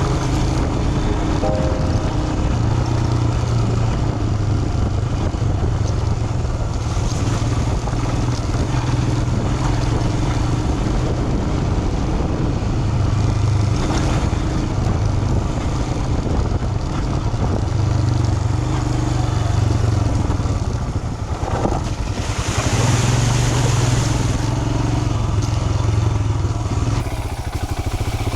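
Royal Enfield Himalayan's single-cylinder engine running steadily while under way, with wind and road noise around it. A louder rushing hiss rises for about two seconds roughly three quarters of the way through.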